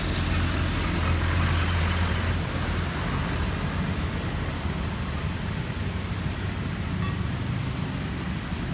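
Steady city road traffic: engines and tyres running, with a heavy vehicle's low engine drone that fades about two seconds in.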